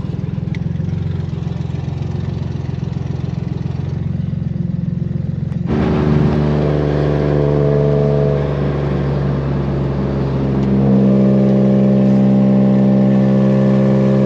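Swapped-in Nissan VQ HR V6 engine running under way, steady at first, then suddenly louder and harsher about six seconds in as it comes onto throttle, and louder again near eleven seconds. The owner blames the raw exhaust note on a gap in the exhaust.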